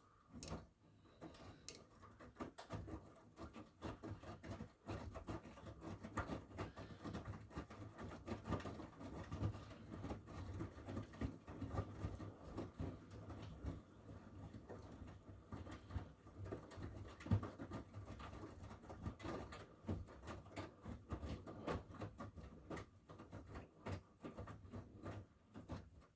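Miele W1 front-loading washing machine turning its drum: wet laundry and water patting and sloshing irregularly inside over a low motor hum, starting suddenly and stopping suddenly after about 26 seconds.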